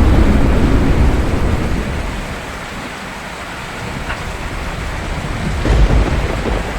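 Steady rain with thunder rumbling: a deep rumble already going at the start fades over the first two seconds, and another swells about five and a half seconds in.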